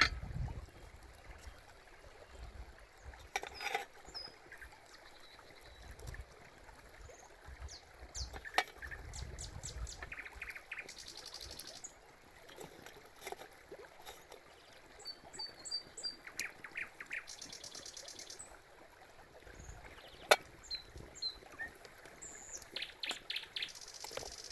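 Small birds chirping now and then over a quiet outdoor background, with scattered taps and rapid clicking, and one sharp knock about twenty seconds in.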